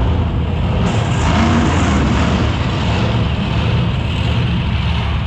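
Monster truck engines running loud in an arena, with a brighter surge about a second in.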